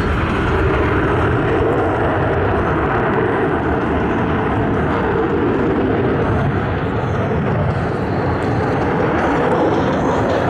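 Single-engine F-16C fighter jet flying a display, its jet engine noise loud and steady throughout.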